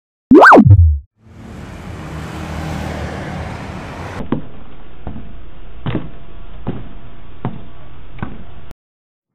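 Dubbed-in sound effects for a Lego stop-motion film. A loud swoop rises and falls in pitch, then about three seconds of rumbling engine-like noise play as the Lego truck is shown. After that comes a sharp footstep-like knock about every 0.8 seconds while the minifigure walks.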